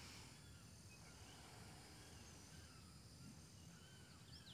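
Near silence with faint outdoor birdsong: short arching chirps repeating, and a few quick high chirps near the end.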